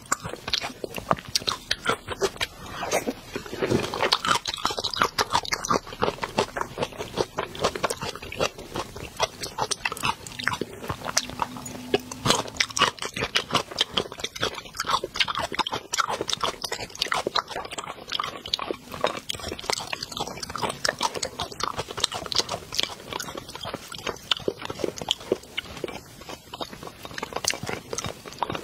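Close-miked chewing and biting of soft food, with many quick wet mouth clicks and smacks.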